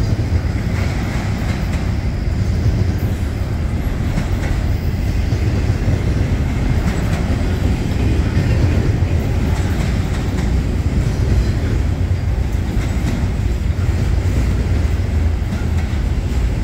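Canadian National double-stack intermodal train passing close by: steady rumble of the container well cars' wheels rolling on the rails.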